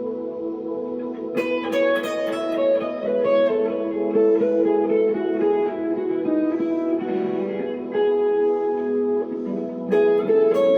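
1963 Fender Telecaster electric guitar played through a 1x12 amp: a held chord rings, then a run of quickly picked single notes starts about a second and a half in, with another flurry of sharp picked notes near the end.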